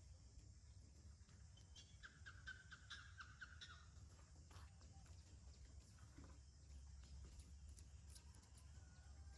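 Faint animal call, a quick run of about eight short notes about two seconds in, over a low steady rumble.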